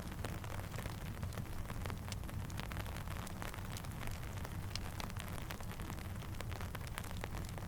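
Steady rain with a campfire crackling: a continuous hiss over a low rumble, scattered throughout with small sharp pops and ticks.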